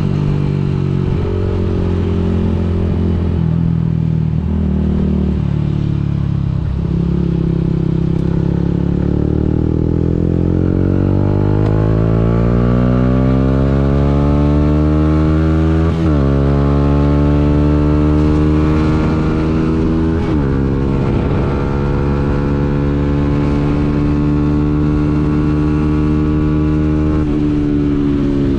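Yamaha MT-125's single-cylinder four-stroke engine accelerating through the gears: the revs climb slowly for about ten seconds, drop sharply with a gear change, climb briefly and drop again with another shift, then hold steady at cruising speed.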